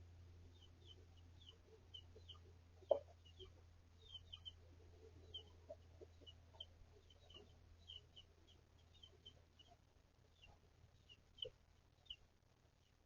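Chickens, faint: chicks peeping in short high notes several times a second, with a few soft low clucks from the hens. A single sharp knock about three seconds in, over a steady low hum.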